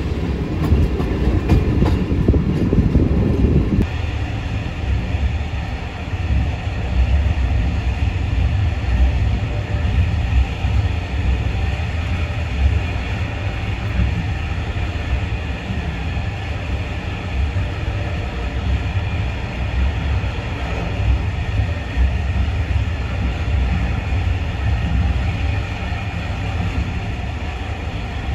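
Passenger train running on the track, a steady rumble of wheels on rails. The sound is heavier for about the first four seconds, then changes abruptly to a steadier running noise.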